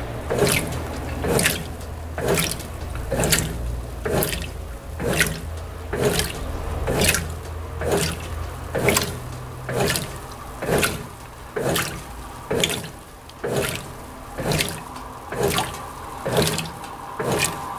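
Brastemp BWT12 top-loading washing machine agitating a load in water, a slosh about once a second as the agitator reverses on the gentle intimates cycle. A faint steady hum comes in near the end.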